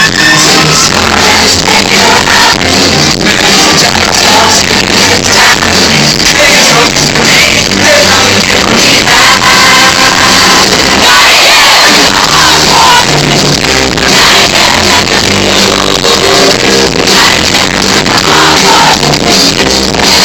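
Loud live rock band music with vocals, distorted and clipping as recorded on a phone.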